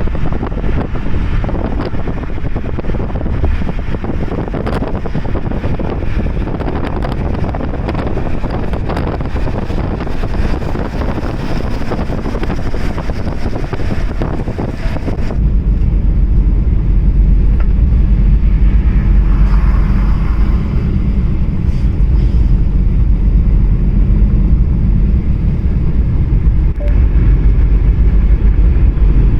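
Car driving: steady road and wind noise. About halfway through, the broad hiss drops away abruptly, leaving a heavy low rumble.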